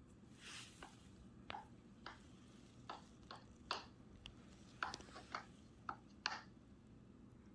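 About a dozen light clicks and taps at irregular intervals, with a brief rustle about half a second in.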